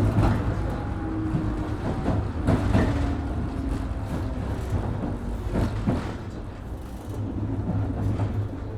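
Inside a 103 series 1500 electric train running slowly, with a steady low hum under the floor and the wheels clicking over rail joints in pairs every few seconds.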